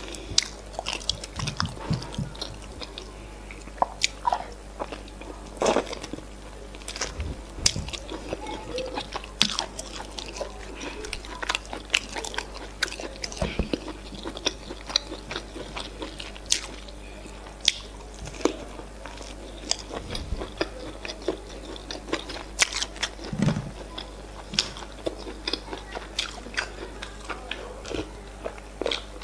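Close-miked eating sounds: chewing and biting into chicken with efo riro stew and semolina fufu, with frequent irregular wet mouth smacks and clicks.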